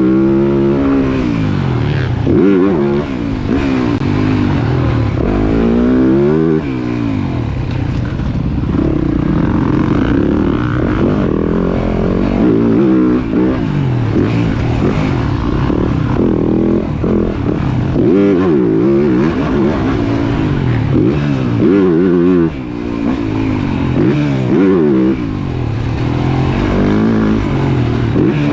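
Motocross bike engine revving hard as it is ridden round a track. Its pitch climbs and drops every second or two with throttle and gear changes.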